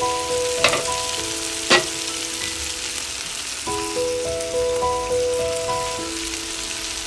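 Food frying in hot oil in a pan, a steady sizzle, with two sharp clicks about a second apart shortly after the start. Background music plays under it.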